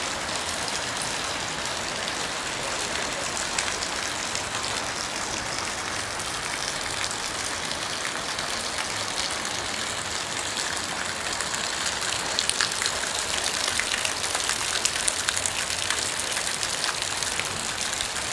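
Steady rain falling, a continuous hiss with many sharp drops pattering on a surface; the drops grow denser and a little louder about two-thirds of the way through.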